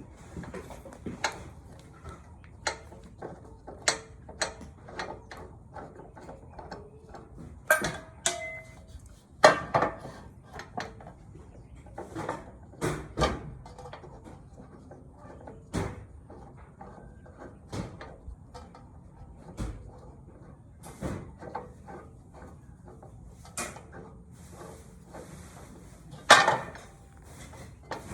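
Scattered clicks, knocks and clatter of metal parts and aluminium stock being handled at a workbench, with two sharper knocks, one about a third of the way in and one near the end. The saw's motor is not running.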